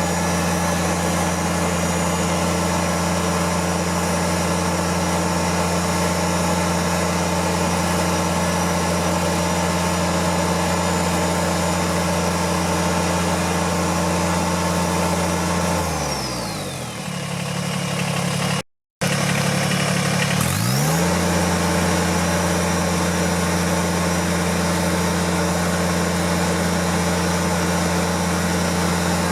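Kubota tractor engine running at a steady speed. About 16 seconds in its speed falls away, the sound breaks off briefly, and a few seconds later it climbs back up to the same steady running.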